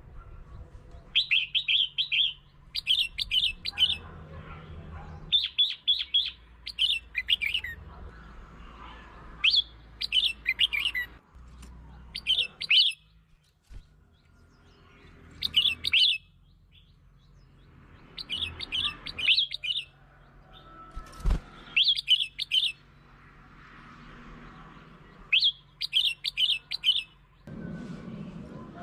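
Red-whiskered bulbul singing short, bright warbled phrases again and again, a second or two apart with brief pauses between. There is a single sharp click about 21 seconds in.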